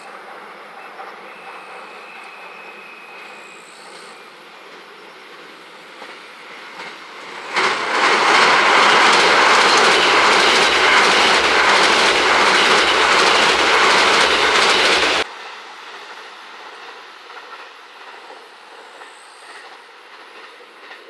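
A limited express electric train passes loudly over a steel-girder railway bridge, its wheels rumbling with rapid clickety-clack over the rail joints. The sound begins about a third of the way in and cuts off suddenly about two-thirds through, leaving a faint, steady outdoor background.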